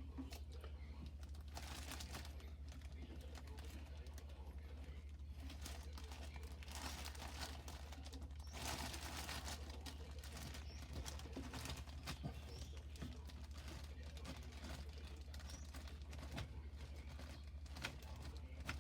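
Faint handling noises from work at a truck's battery terminals: rustling and scraping with scattered small clicks, louder briefly about 2, 6.5 and 9 seconds in. A steady low hum runs underneath.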